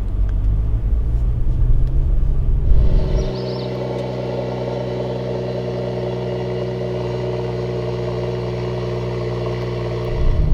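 Mercedes-AMG CLS53's turbocharged 3.0-litre inline-six in Sport Plus mode, heard from inside the cabin: a deep rumble for about the first three seconds as the car pulls away, then a quieter, steady engine drone at constant revs.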